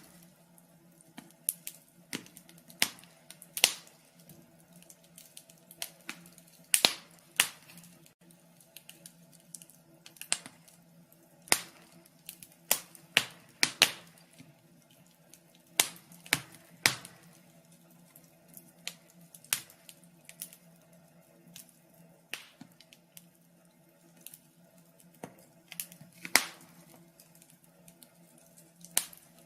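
Wood fire in a fireplace crackling, with irregular sharp pops and snaps, some in quick pairs, over a faint steady low hum.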